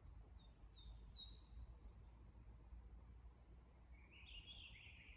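A songbird singing faintly: a quick run of high, thin notes in the first half, then a lower warbling phrase near the end.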